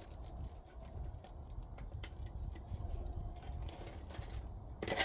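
Scattered light taps and clicks from handling and fitting the heat pump's roof cover, with one sharp knock near the end, over a steady low rumble.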